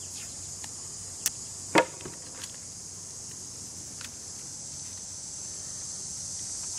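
Steady high chirring of crickets, with a few short sharp clicks and knocks from handling, the loudest about two seconds in.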